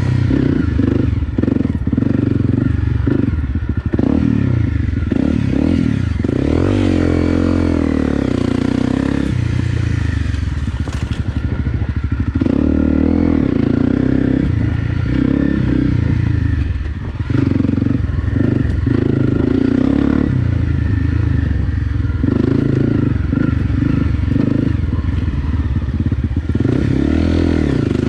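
Honda CRF250 Rally's single-cylinder engine being ridden, revs rising and falling continuously as the rider works the throttle, with a brief drop in revs about two-thirds of the way through.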